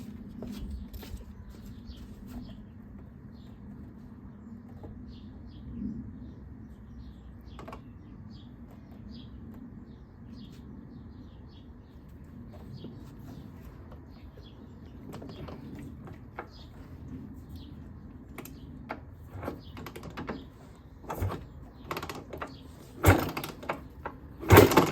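Kick-start attempts on a Maico 250 two-stroke dirt bike engine. Small clicks and knocks build into two loud kicks near the end, and the last kick kicks back without the engine catching.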